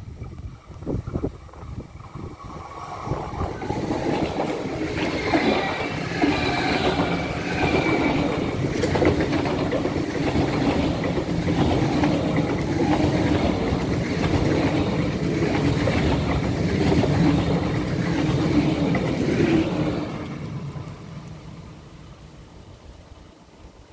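ICE 4 high-speed train passing close by: the rush and rumble of wheels on rails builds over the first few seconds, holds loud while the carriages go past, and falls away after about twenty seconds as the train recedes. A few low thumps in the first second or so.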